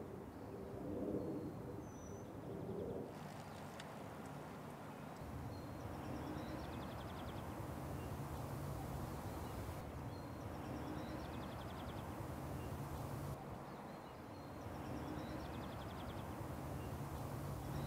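Small birds chirping and trilling now and then over a steady low rumble of outdoor background noise, the background changing abruptly a few times.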